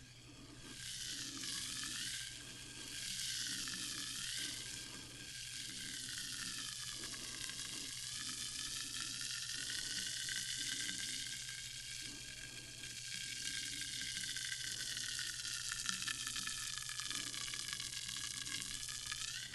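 Carbonated sparkling water fizzing: a dense, steady crackle of bursting bubbles, with a faint low hum underneath.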